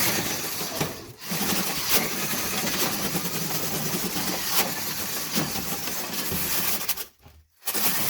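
Drill spinning a rotary dryer-vent cleaning brush on its rods while it is pulled back out through the dryer duct, the brush scrubbing lint off the duct walls. The drill stops briefly near the end.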